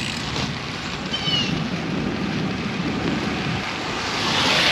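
Steady rush of wind buffeting the microphone, with a short high chirp about a second in.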